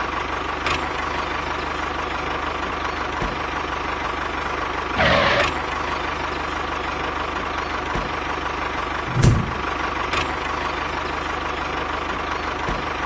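Mini tractor's engine running steadily at idle, with a brief louder burst of noise about five seconds in and a low thump about nine seconds in.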